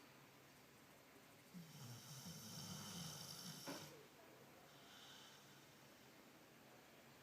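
An American Staffordshire terrier snoring in its sleep. One long snore, low and wavering in pitch, starts under two seconds in and lasts about two seconds, and a fainter breath follows about five seconds in. The sound is quiet overall.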